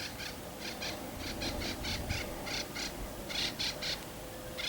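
A wild bird calling a long run of short, harsh notes, many in quick pairs, about three or four a second.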